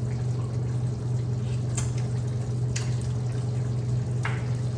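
Pork adobo in coconut milk simmering in the pan, bubbling steadily over a low steady hum, with a few light clicks about two, three and four seconds in.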